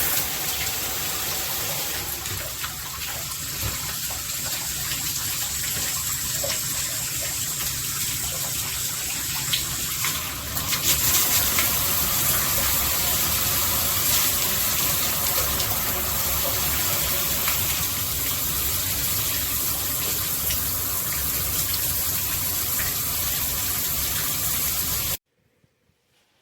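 Water spraying steadily from a GRICH 2.5 GPM dual rainfall and handheld shower head, a continuous rush that gets a little louder about ten seconds in and cuts off suddenly near the end.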